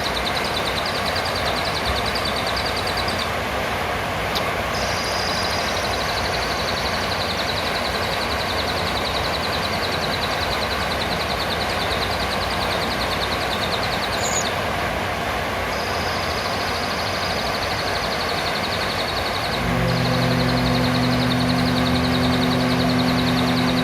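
Blue-crowned hanging parrots (serindit) giving high, rapid trilling calls over a steady hiss of background noise. About twenty seconds in a low, steady droning hum joins in.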